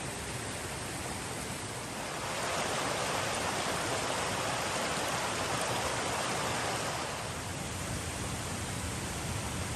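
Steady rushing water noise, swelling louder for about four seconds from around two seconds in.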